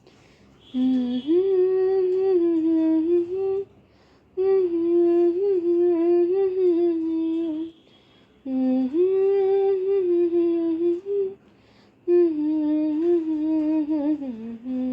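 A woman's voice humming a slow, wordless devotional melody, unaccompanied, in four held phrases with short pauses between them.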